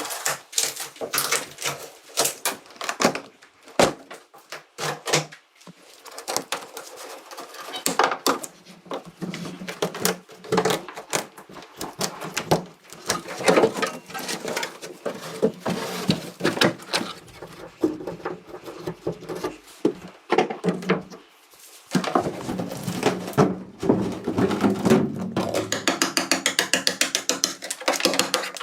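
Mechanical clicking and knocking at an irregular pace, which settles into a fast, even run of clicks near the end.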